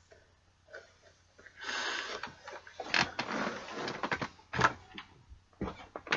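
Boxed Funko Pop figure being handled: packaging rustling and scraping, with several sharp knocks and clicks in the second half.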